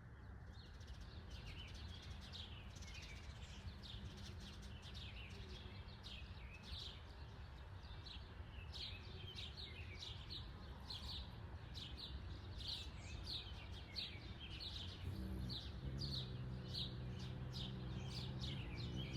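Backyard birds chirping over and over, short falling chirps about two a second, over a low outdoor rumble. About three-quarters of the way through, a low steady mechanical hum joins in.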